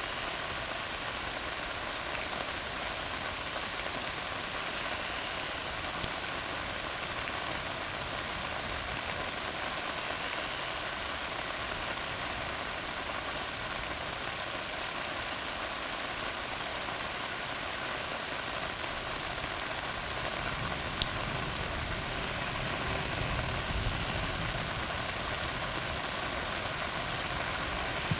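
Steady rain falling on a tar road, an even hiss of drops with a few sharper single drop ticks. A low rumble swells in the second half.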